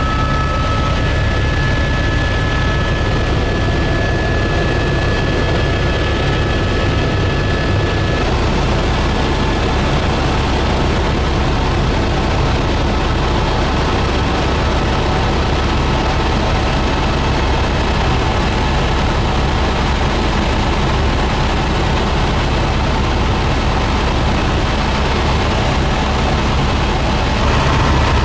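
A helicopter's turbine engine and rotor run with a steady, loud, deep drone. A thin high whine runs alongside and stops about eight seconds in.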